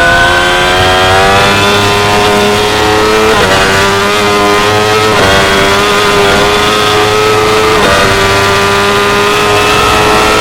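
2016 Yamaha R6's inline-four engine running hard at high revs on a race track, the note climbing slowly. It breaks off briefly three times along the way.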